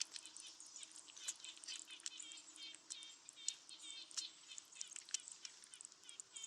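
Faint, rapid, repeated high chirps from small birds, with scattered sharp clicks and ticks among them.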